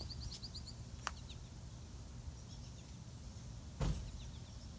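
Quiet background with a steady low hum, a quick run of high bird chirps at the start, and a single short knock just under four seconds in.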